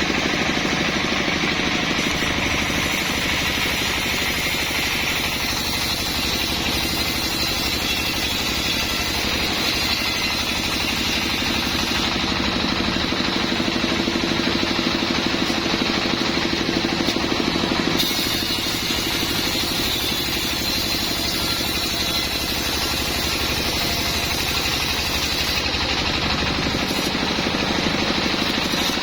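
Small sawmill machinery running steadily, a continuous engine-like hum with a whine in it, changing abruptly a few times.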